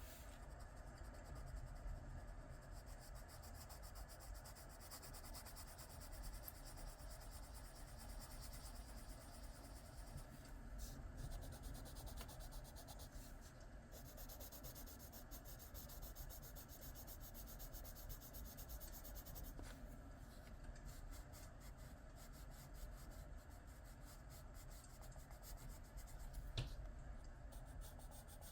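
Coloured pencil scratching faintly on paper in quick, steady back-and-forth strokes, filling in a shape. One sharp tick sounds near the end.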